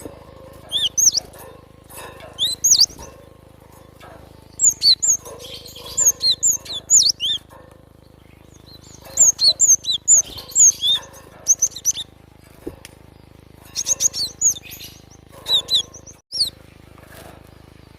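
Cinereous tit (glatik batu) singing: rapid phrases of sharp, high, slurred whistled notes, repeated in bursts of one to three seconds with short pauses between them.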